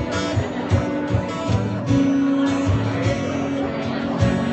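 Live acoustic guitar strummed in a steady rhythm over a low bass line: the instrumental intro of a folk song, before the vocals come in.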